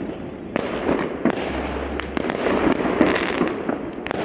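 Fireworks going off: irregular sharp bangs, several in quick succession, over a continuous crackle of bursting shells.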